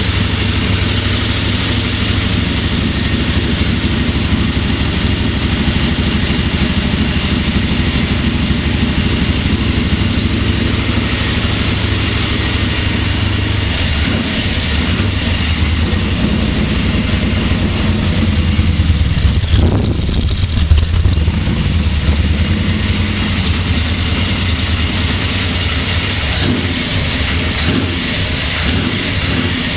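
Freshly rebuilt V8 in a Z28 Camaro running steadily on its first start-up after the engine build, with a brief louder, rougher stretch about two-thirds of the way through.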